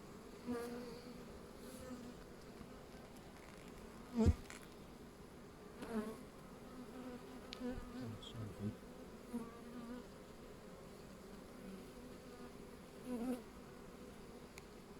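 Honeybees humming steadily around an open hive. A dull knock comes about four seconds in, with softer knocks around six and thirteen seconds.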